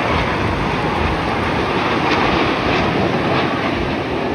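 Steady, loud roar of military jet engines.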